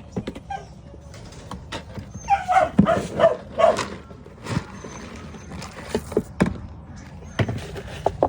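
A dog barking in short bursts, with a run of several quick barks about two to four seconds in. Scattered sharp knocks follow.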